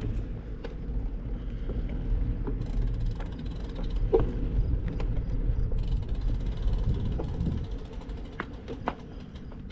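Bicycle in motion: a low rumble of road and wind under scattered creaks and knocks from the bike, with the fast ticking of the rear freewheel ratchet while coasting, from about three seconds in.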